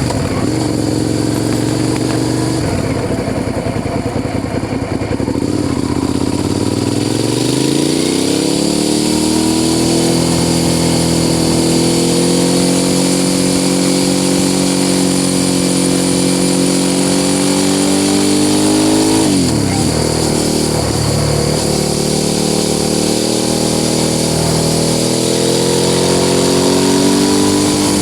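Suzuki SV650 S 645 cc V-twin with an aftermarket Mivv exhaust, heard onboard while riding. The engine pitch is low at first and rises steadily from about seven to ten seconds in, then holds fairly steady. About two-thirds through it drops sharply and climbs back.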